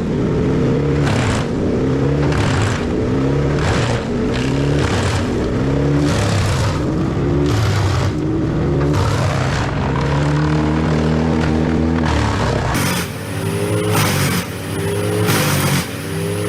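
Heavy engine of a large wood chipper running under load, its pitch dipping and recovering over and over, about every second and a half, over a noisy crunching of wood. About thirteen seconds in, the deepest rumble drops away.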